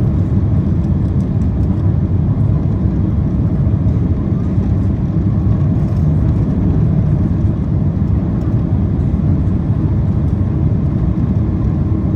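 Steady, loud low rumble inside the cabin of a Boeing 767-400ER rolling out on the runway just after touchdown: engine noise mixed with wheels and airframe rumble as the airliner slows.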